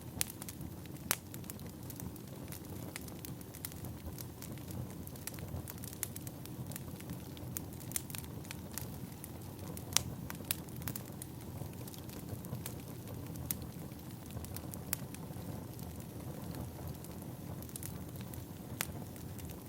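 Firewood burning: a steady low rumble of flames with irregular sharp crackles and pops, the loudest about a second in and about halfway through.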